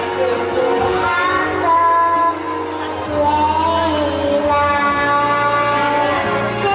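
A woman singing held, gliding notes over backing music.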